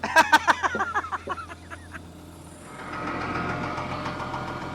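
Auger truck's engine running, with a quick run of sharp metallic clicks and clanks in the first second, then the engine sound growing louder and steadier about three seconds in as a hydraulic control lever is worked.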